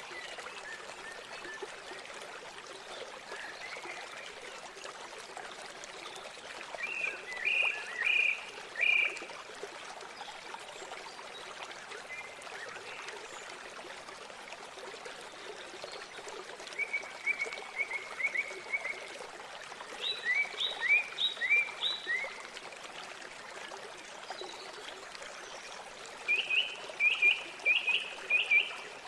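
River water flowing steadily, with a bird calling in several short runs of quick, high notes.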